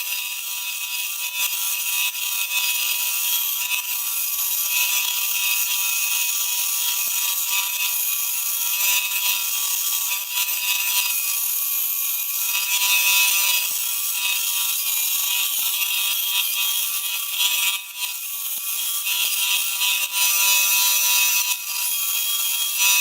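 Homemade CNC machine running: a steady whine of several tones over a strong hiss, dipping briefly near the end.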